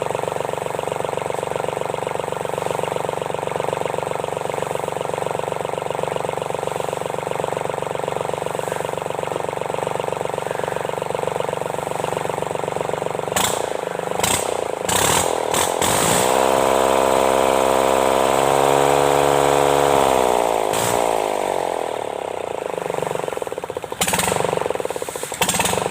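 Sunshine L1-255 tractor's Kubota D1462 three-cylinder diesel running after a valve-seat and piston-ring overhaul. It idles steadily at first, then, after a few sharp knocks about halfway through, it is revved up, held high for several seconds and let back down toward idle, with more knocks near the end.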